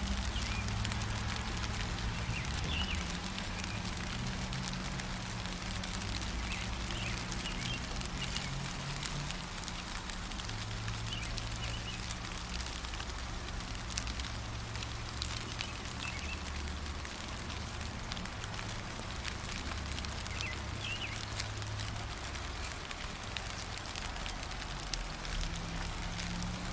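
Steady gentle rain, an even patter of many small drop ticks, with a low rumble underneath. A few short, faint bird chirps come through now and then.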